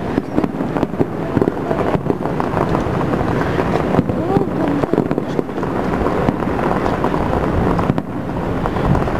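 Fireworks display heard from afar: many quick pops and bangs over a steady rumbling noise.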